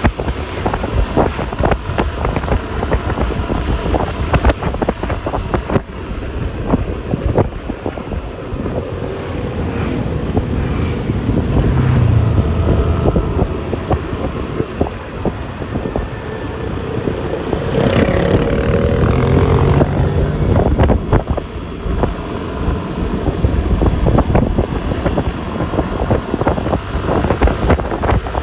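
Road noise from a moving scooter: wind buffeting the microphone over a steady hum of traffic. Engines of passing vehicles swell briefly twice, near the middle and again about two-thirds through.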